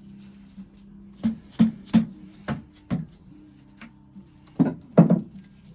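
Seven sharp knocks and clinks at irregular intervals from engine parts being handled during the strip-down, the loudest two near the end, over steady background music.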